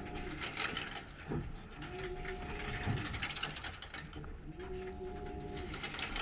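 Washing machine running a wash cycle, its motor giving a rising-and-falling whine with each turn of the drum, about every two and a half seconds, over a steady churning noise.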